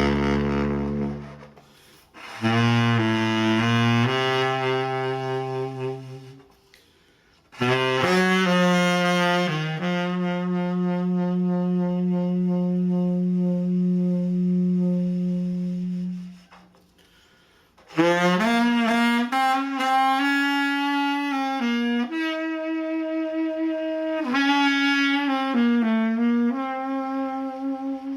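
Solo saxophone playing slow, sustained meditative phrases, four of them with short pauses between. The third phrase holds one low note for about six seconds.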